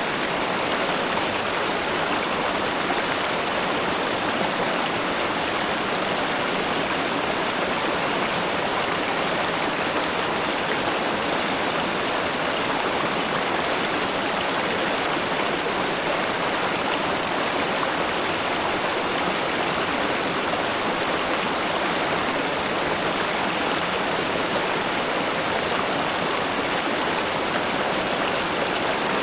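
A stream of spring water flowing steadily, an even rushing with no breaks.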